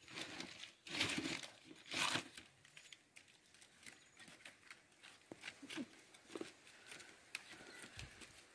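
Dry sticks and brush rustling and crackling as firewood is handled and stacked for a bonfire: two louder rustles about one and two seconds in, then light scattered clicks and taps of wood.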